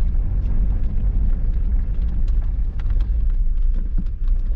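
Car driving slowly, heard from inside the cabin: a steady low rumble of engine and road, with scattered small clicks.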